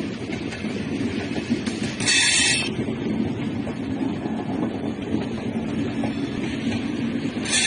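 A train running past with a steady rumble of wheels on rails. A short high-pitched burst comes about two seconds in and again near the end.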